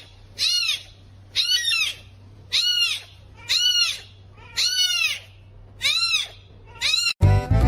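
An animal calls about eight times, evenly spaced a little under a second apart, each call a short cry that rises and then falls in pitch.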